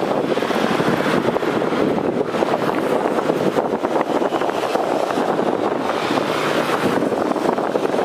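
Jet airliner engine noise at an airport: a steady rushing sound with no distinct pitch, wavering slightly in level, with some wind on the microphone.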